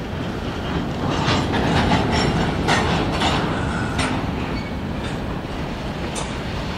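Freight train of covered hopper cars rolling past, a steady low rumble with irregular clicks and clunks of steel wheels going over the rail joints.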